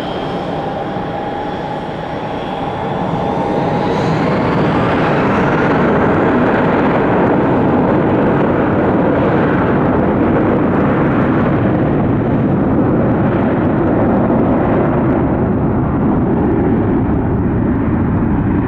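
Jet airliner engines, a Boeing 737-800 on its arrival: a high whine slowly falling in pitch, then a loud, steady roar that builds about three seconds in and holds.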